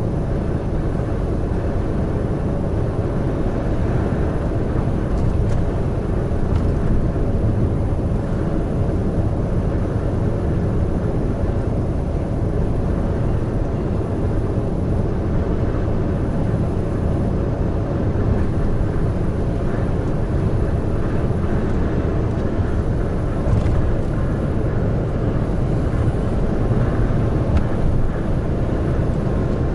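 Large truck cruising at steady speed on an expressway: a constant low engine drone mixed with tyre and wind noise.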